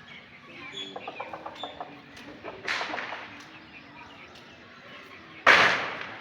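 Chickens clucking in a quick run of short notes about a second in, then two sudden rushing noise bursts, the second one near the end the loudest and fading over about half a second.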